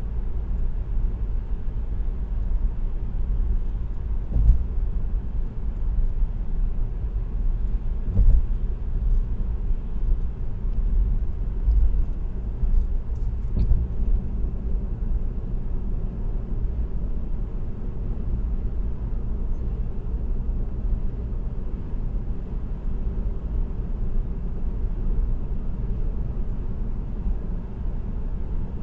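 Steady low rumble of tyre and road noise from a car cruising on an expressway, heard from inside the car, with a few brief thumps.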